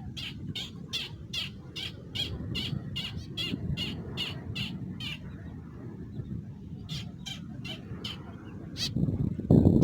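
A bird giving short sharp calls in a fast, even series, about three a second for the first four and a half seconds, then a few more near the end, over a low background rumble.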